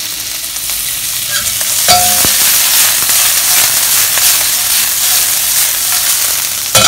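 Prawns sizzling in hot oil in a cast iron wok as they are stirred and tossed, a steady hiss. A brief ringing clink about two seconds in.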